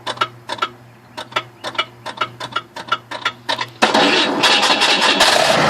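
1996 Chevrolet S10 being started: a rapid clicking, about four clicks a second, over a steady low hum, which the owner puts down to the start button. About four seconds in the engine catches and keeps running.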